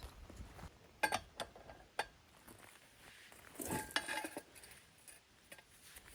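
Metal hand tools clinking and scraping on metal: a few sharp clinks in the first two seconds and a short rattling scrape near the middle.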